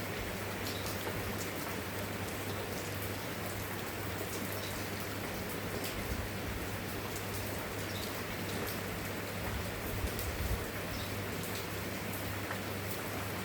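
Steady, even rainfall with scattered individual drops pattering on a surface, over a steady low hum.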